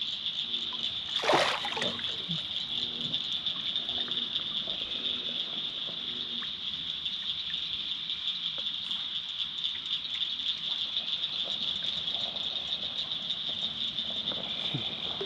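A steady, high, fast-pulsing chorus of night insects such as crickets, with a brief splash of water about a second in.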